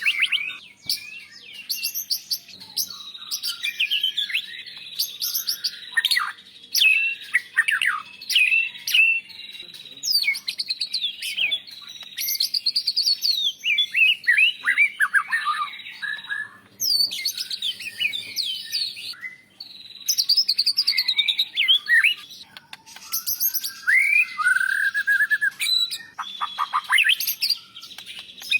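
White-rumped shama (murai batu) singing a long, varied song: phrases of quick whistled notes, sweeping slurs and rapid trills, broken by short pauses.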